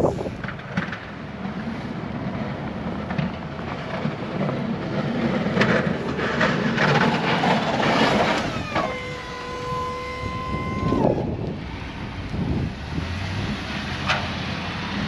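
Snow-plow truck running and pushing snow drifts in strong wind, with a steady rumble and scattered knocks and scrapes. Past the middle a steady whine drops in pitch, holds for about two seconds, then cuts off.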